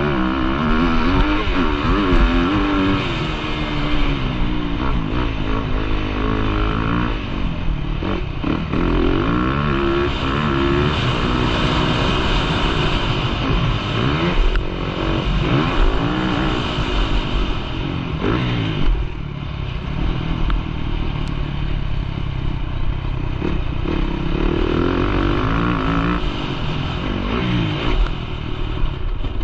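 Motocross bike engine heard from on board, revving up and falling back over and over as the rider throttles on and off around the track.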